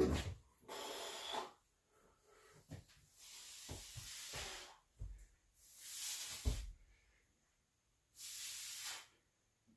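A man breathing hard from exertion: four long, forceful exhalations about two seconds apart, with a few soft low thumps.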